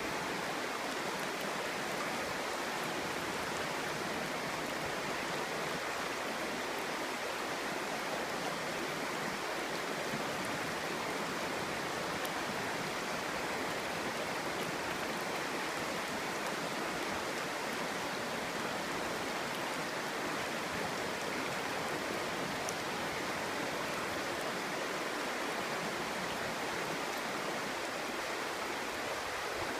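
Clear, shallow stream babbling steadily over stones, an even rush of water with no breaks.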